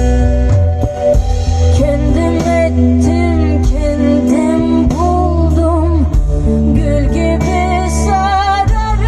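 A song with singing over a strong bass line, played through a 4-way active car audio system: Morel Supremo and ScanSpeak speakers, a Helix DSP Pro processor, Genesis amplification and a JL Audio 12W7 subwoofer on a JL 1000/1 amplifier.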